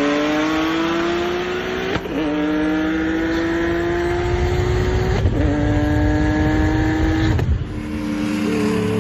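Nissan 370Z's VQ V6 engine under hard acceleration. The pitch climbs steadily through the gears, with upshifts about two and five seconds in where the note drops and climbs again. Near the end the engine comes off the throttle and settles to a lower, steadier note.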